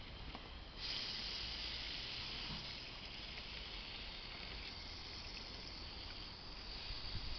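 Water running steadily into a spray bottle, starting about a second in, to dilute a two-part engine degreaser concentrate.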